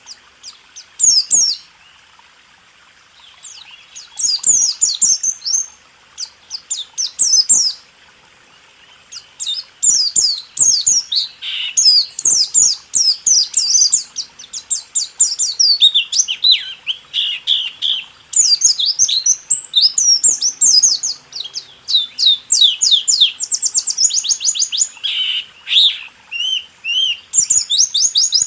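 A white-eye (pleci) singing fast, high chirping phrases of the rolling 'rol tembak' song type. Short phrases come with pauses between them in the first few seconds, then the singing runs almost without a break from about a third of the way in.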